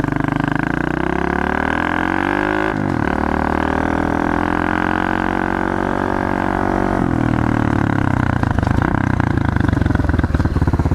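Pit bike engine accelerating hard under full throttle. The revs climb for about three seconds, drop sharply at a gear change, then climb and hold again. About seven seconds in they drop a second time and the engine runs lower and choppier.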